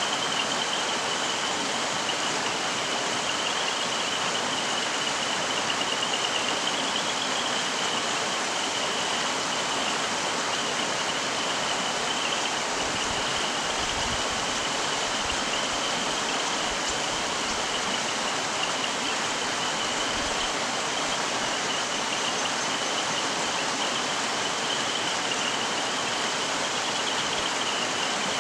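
Mountain stream flowing over rocks: a steady rush and ripple of water, with a constant high-pitched shimmer running through it.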